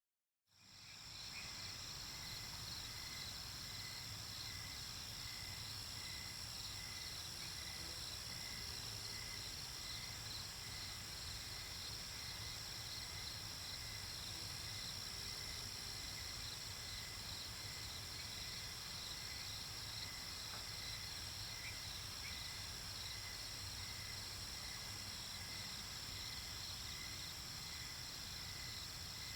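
Nighttime insect chorus of crickets chirping in steady, fast pulsing trills at several pitches over a low hum. It fades in from silence just after the start.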